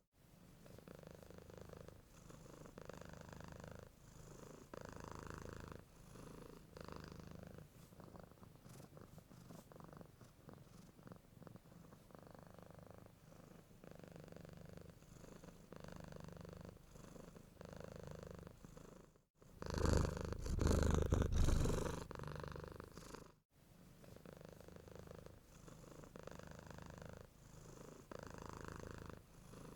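Domestic cat purring steadily in slow rhythmic swells. About two-thirds of the way through, a much louder, closer stretch of purring cuts in abruptly for about four seconds and cuts out just as suddenly.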